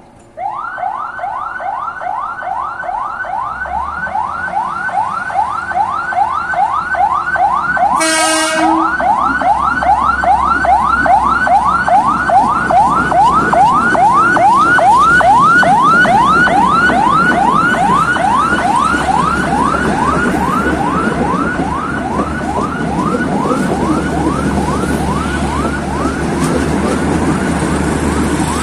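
Railway level-crossing warning alarm sounding continuously, a rising tone repeating a little over twice a second. About eight seconds in there is one short horn blast. A train's low rumble builds up underneath from a few seconds in.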